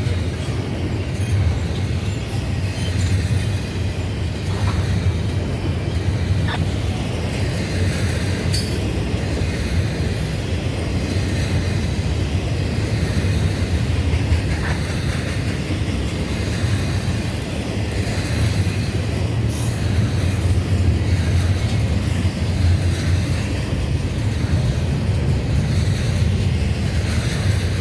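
CSX freight train rolling past, a steady rumble of railcar wheels on the rails with a few faint clicks.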